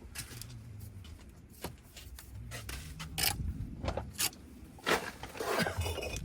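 Bricks knocking and scraping against one another as they are picked through by hand, with several sharp clacks among quieter scraping.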